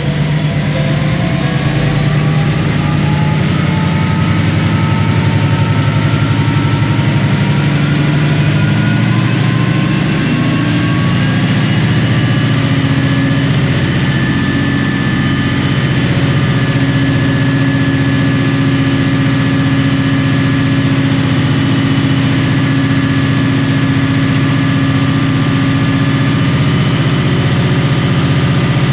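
EMD 645E3C V16 turbocharged diesel locomotive engine running unmuffled. Over roughly the first ten seconds its note and a high whine climb in pitch as it comes up in speed, then it holds steady.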